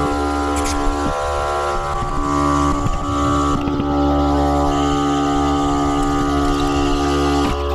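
Milwaukee cordless air compressor running steadily, a loud, even motor drone, likely inflating the motorcycle tire to seat the bead.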